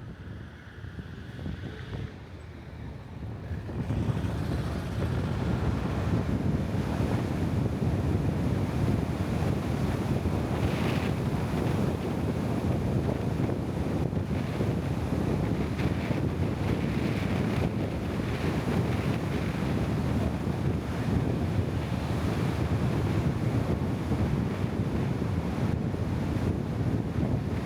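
Steady rushing wind noise with a low rumble, which grows louder about four seconds in and then holds even.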